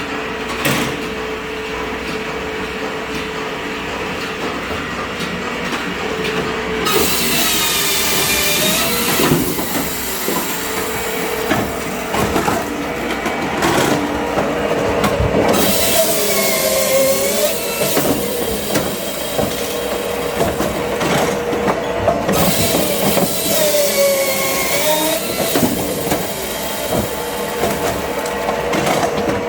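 Saw of a firewood-cutting machine cutting oak logs: a steady motor hum, with a screeching whine that bends down and back up in pitch three times, about eight seconds apart, as the blade goes through a log.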